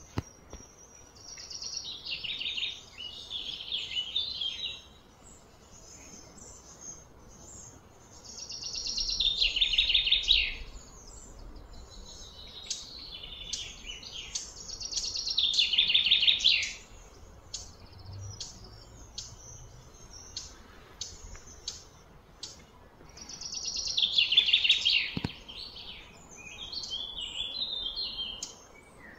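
A songbird singing: about four loud phrases of rapid, high chirping, each lasting two to three seconds and coming every six to eight seconds, with fainter high chirps in between.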